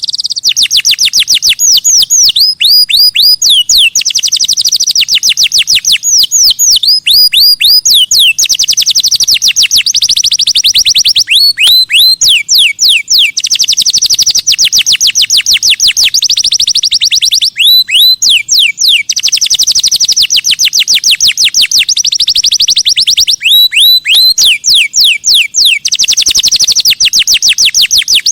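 Songbird singing long, loud trills of sharp down-slurred whistled notes, many a second, broken by brief pauses and changes of note shape.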